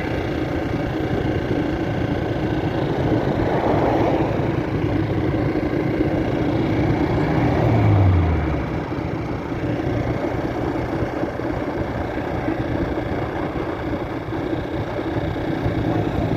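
Street traffic: a steady rumble of vehicle engines and tyres. One vehicle passes about eight seconds in, its engine note falling in pitch as it goes by.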